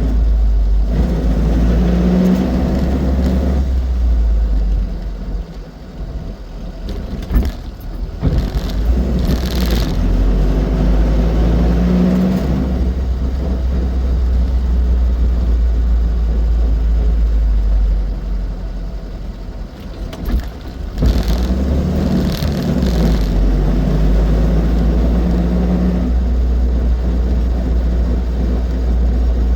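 Austin 7's small side-valve four-cylinder engine running under way with road noise, the engine note easing off twice for a couple of seconds before picking up again, with a few short knocks around those dips.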